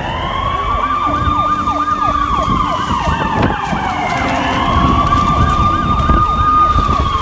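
Emergency vehicle sirens sounding together: a slow wail rising and falling over about four seconds, overlaid by a fast yelp sweeping up and down about three times a second.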